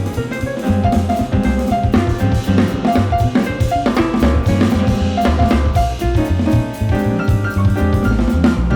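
Live jazz band playing an instrumental piece. A busy drum kit with kick and snare runs under a moving bass line and a melody that steps between short held notes.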